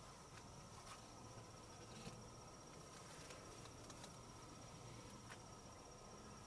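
Near silence with a faint, steady, high insect trill, and a few soft ticks.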